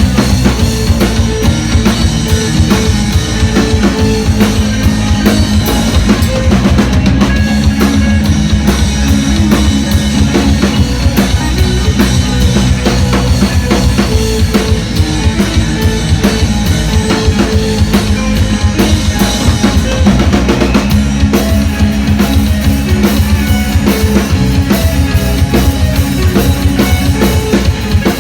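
Live band playing, led by a drum kit keeping a steady, driving beat on bass drum and snare over sustained low bass and guitar notes.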